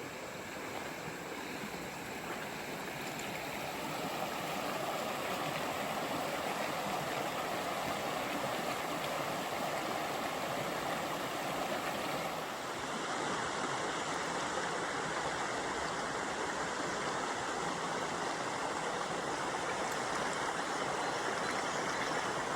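Steady rushing noise like flowing water, with no shots or other events; its tone shifts slightly about halfway through.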